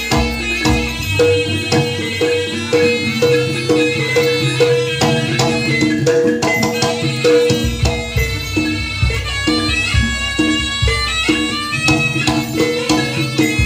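Jaranan gamelan music: hand drums beating a steady rhythm under a repeating pitched gong-chime note, with a reedy wind instrument playing a winding melody over the top.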